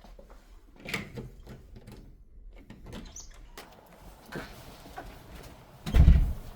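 A door being opened and shut: a sharp click about a second in, a few lighter knocks, and a heavy low thump near the end.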